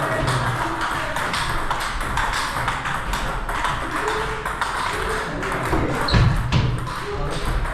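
Table tennis ball clicking off rackets and the table in a rally drill, a quick run of sharp hits and bounces.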